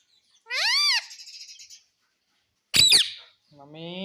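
Indian ringneck parrot giving two loud, shrill calls. The first is an arching note, rising then falling, about half a second in. The second is a brief sharp screech just before three seconds.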